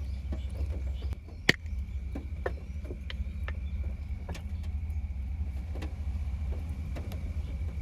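Irregular drops tapping, one sharper tap about a second and a half in, over a steady low rumble, as of rain on a camping setup by the sea; a faint steady high tone runs underneath.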